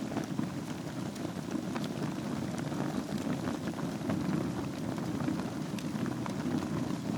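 Wood fire burning in a fireplace over a bed of embers: a steady low rumble of flames with many small, scattered crackles and pops.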